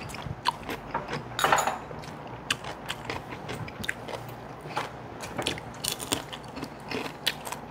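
Chewing and crunching of Korean side dishes, with many short sharp clicks throughout and one louder crunch about one and a half seconds in.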